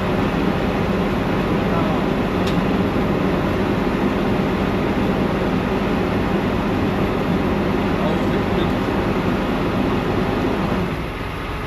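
Detroit Diesel Series 60 14-litre diesel engine idling with a steady, even drone; the sound drops noticeably near the end.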